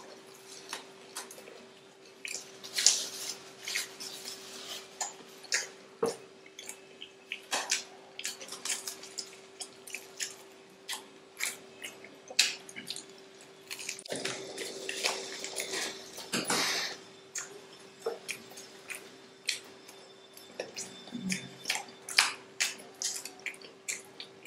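Close-up chewing and biting of breaded, fried chicken cheese rolls: irregular crunchy crackles and wet mouth clicks. A faint steady hum sits underneath.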